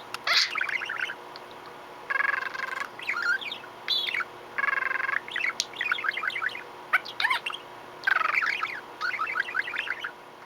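Budgerigar warbling and chattering: a stream of quick chirps, clicks and buzzy, scratchy notes in several bursts with short pauses between them.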